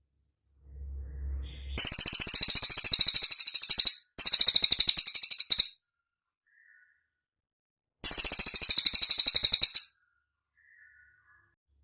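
Cililin bird singing: three loud, rapid, high-pitched trills, each lasting about two seconds. The first two come almost back to back, and the third follows after a short pause, with faint single chirps between them. A low rumble comes just before the first trill.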